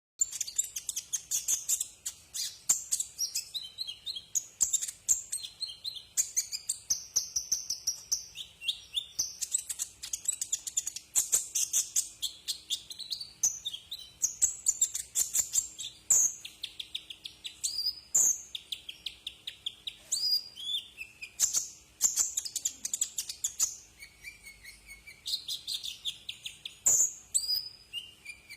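Olive-backed sunbird (kolibri ninja) singing: a rapid, high-pitched twittering song of quick chirps and fast trills.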